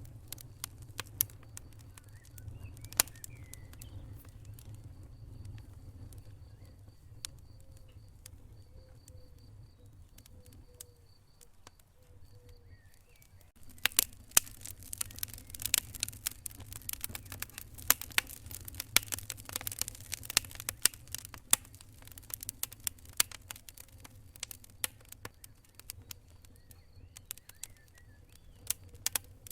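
Wood fire crackling and popping over a low steady rumble: scattered sharp pops at first, then a dense run of crackles from about halfway through.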